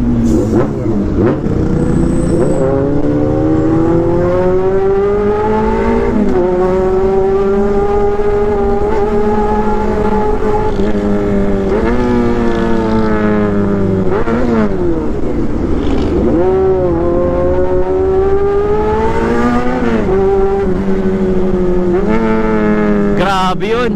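Honda CB400 Super Four's inline-four engine pulling hard as the motorcycle accelerates, its high buzzing note rising in each gear and dropping at several gear changes; a bumblebee-like whine.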